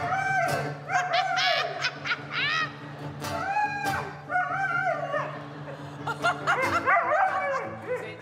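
A dog 'singing' into a microphone: a run of short, pitch-bending yelps, barks and howls over guitar playing, with the dog's voice rising and falling in time with the song.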